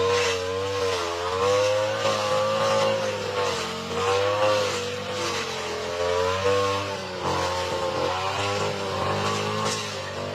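Lawn mower engine running under load cutting thick, overgrown grass, its pitch dipping and recovering about once a second as the cut bogs it down.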